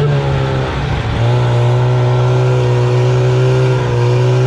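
Snowmobile engine running at a steady pitch while riding, with a rushing hiss. About a second in the engine note eases and wavers briefly, then settles back to the same steady note.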